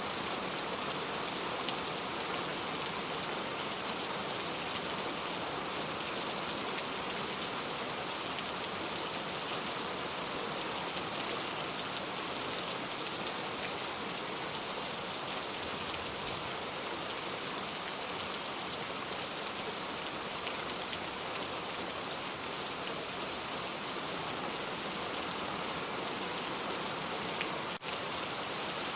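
Steady rain falling, an even hiss scattered with small drop ticks, with a momentary break in the sound near the end.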